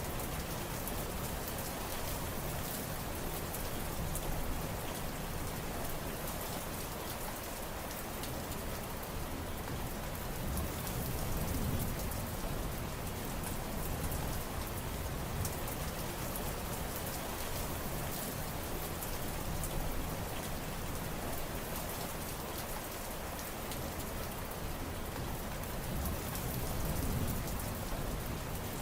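Steady heavy rain falling and pattering on surfaces, with a dense crackle of drops. A low rumble swells and fades about twelve seconds in and again near the end.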